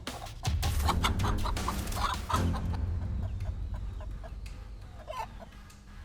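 Mother hen clucking in a rapid run of short calls, in alarm while she fights off a snake near her chicks, thinning out after about two and a half seconds. A low music bed runs underneath.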